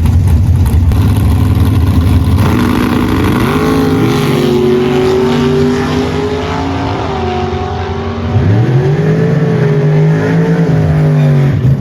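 Drag-racing car engine at full throttle down the strip: a steady low running note at first, then the pitch climbs, drops sharply about eight seconds in at a gear change, and climbs again.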